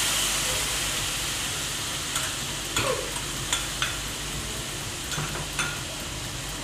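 Sambar masala in water sizzling in hot tempering oil in a kadhai, the hiss slowly dying down as it fries. A few light knocks of utensils against the pan come as it is stirred.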